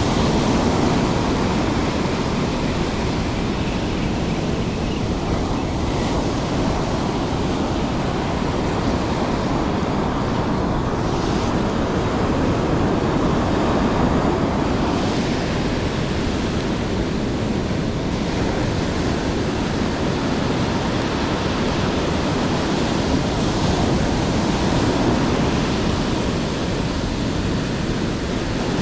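Steady wash of surf and heavy rain, with wind on the microphone.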